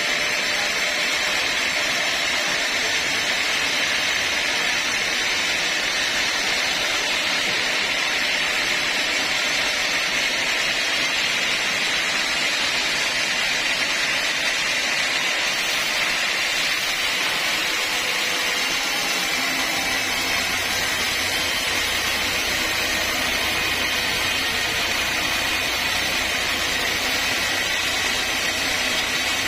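Sawmill saw running steadily with a continuous, even noise. About two-thirds of the way in, a low hum joins it.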